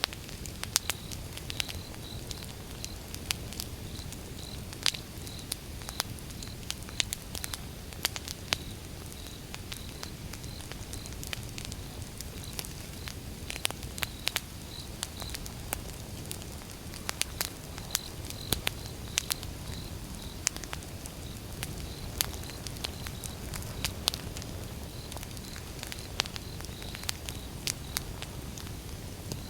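Wood fire burning, crackling with frequent irregular sharp pops over a low steady rumble of flames.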